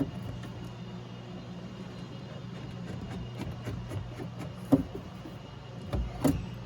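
Steady low hum in the background, with a few sharp clicks and knocks of parts being handled inside a car door as the lock actuator latch assembly is worked loose; the loudest knock is about two-thirds of the way in, with two more near the end.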